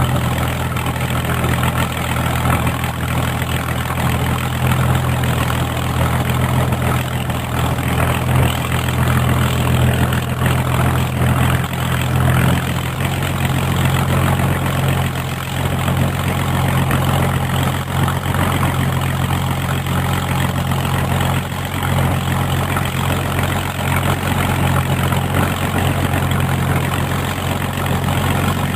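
Hawker Hurricane's Rolls-Royce Merlin V12 engine idling, a steady low drone that holds an even pitch and level.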